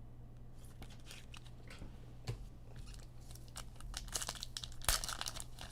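Sports trading cards and their plastic wrapping being handled up close: scattered crinkling and rustling that grows busier and louder toward the end, over a faint steady hum.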